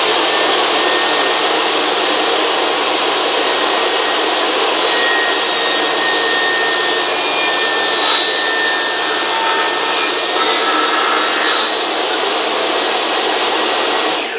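Craftsman electric power saw running at full speed and cutting through a cedar fence picket, a loud steady whine with the grind of the blade in the wood.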